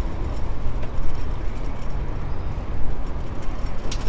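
Wind rumbling on a bicycle rider's camera microphone as he rides along a city street, mixed with the noise of traffic around him. A single short click near the end.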